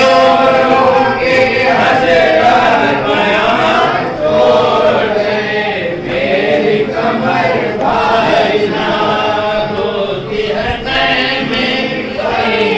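Men's voices chanting an Urdu noha, a Shia mourning lament, in long melodic lines that rise and fall without a break.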